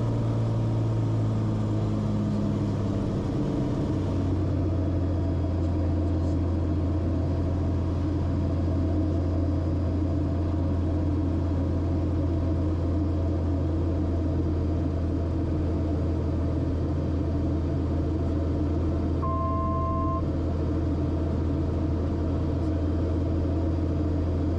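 Cabin drone of the Cessna Corvalis TTX's turbocharged six-cylinder engine and propeller in flight, dropping a step in pitch about four seconds in and then holding steady. A short two-tone electronic beep sounds once, about three quarters of the way through.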